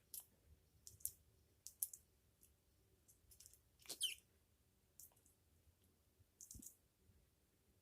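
African Grey parrot preening: faint, scattered beak clicks and feather rustles, with a short falling squeak about four seconds in.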